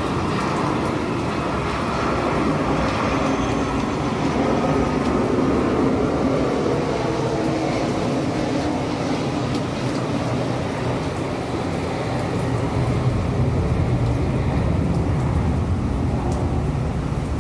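City rainstorm ambience: a steady, rumbling wash of noise, growing deeper a little past halfway.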